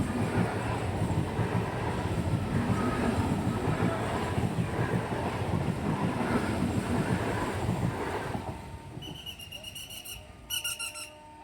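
Local train passing over the level crossing: a steady rumble of wheels on the track that fades about eight seconds in. A rapid pulsing electronic beeping alarm then sounds.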